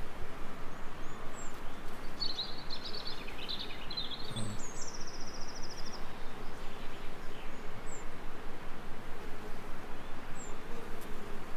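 Steady hiss of gentle rain, with songbirds calling over it: a fast trill about two seconds in, a buzzy trill around four and a half seconds, and a few short high chirps scattered through.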